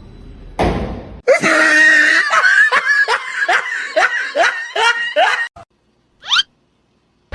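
Hearty laughter in a run of short rising bursts, about two or three a second, after a brief noisy rush. A single short rising squeak comes near the end.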